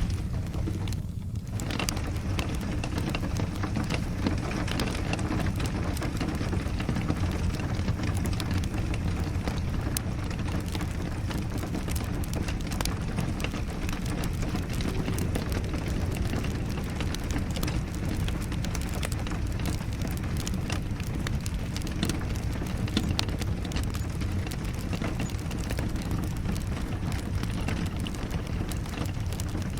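Steady rain with a low rumble underneath and scattered sharp crackles and pops from a wood fire. The higher part of the rain sound thins briefly about a second in.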